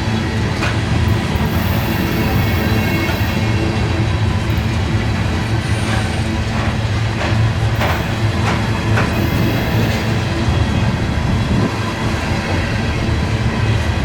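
Train rolling past: a loud, steady rumble with a low hum, broken by scattered sharp clicks of wheels over rail joints, several of them close together about halfway through.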